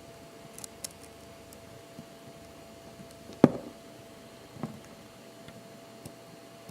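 Small clicks and taps of watchmaker's tools and parts against a quartz watch movement as its coil blocks are fitted, with one sharper knock about three and a half seconds in and a few lighter ticks, over a faint steady hum.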